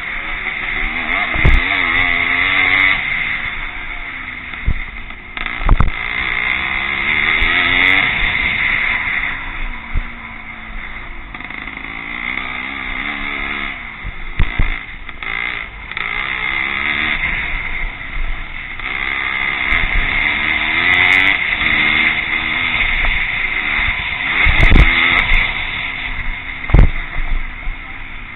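Classic pre-1965 motocross motorcycles racing, their engines revving up and dropping back again and again as they ride the course. A few short low thumps break in, about a second and a half in, near six seconds, and twice near the end.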